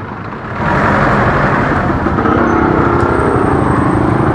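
Road traffic: a motor vehicle's engine swells up about half a second in and runs on steadily, with road noise.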